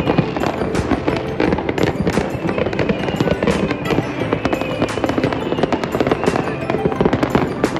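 Many fireworks going off at once across a city: a dense, unbroken crackle of bangs, pops and distant booms overlapping with no pause.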